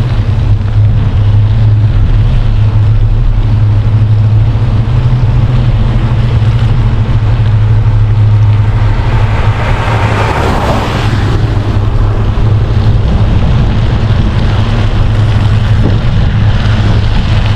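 Heavy wind buffeting on the microphone of a moving bicycle rider. A passing vehicle's noise swells and fades about ten seconds in.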